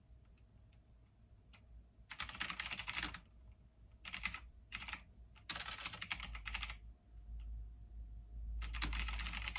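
Computer keyboard being typed on in quick bursts of keystrokes, with pauses between bursts, over a low steady hum.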